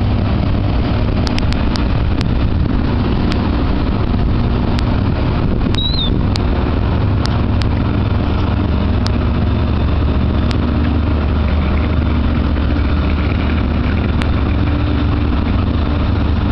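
An engine idling with a steady low hum, with scattered sharp clicks and a brief high chirp about six seconds in.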